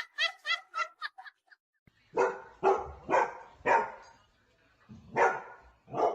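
A dog barking: four barks about half a second apart, a pause of about a second, then two more.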